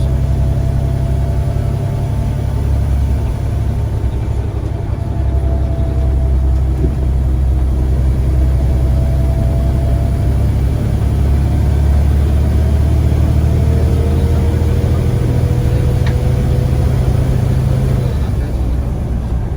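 Scania CN94UA bus engine running with a steady low drone, over which a faint whine slowly rises in pitch. Part of the low drone drops away near the end.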